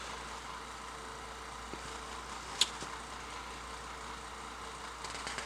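Quiet room tone with a faint steady hum, broken by one sharp small click a little past halfway.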